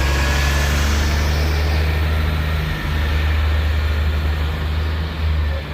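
A motor vehicle's engine running steadily, a low hum.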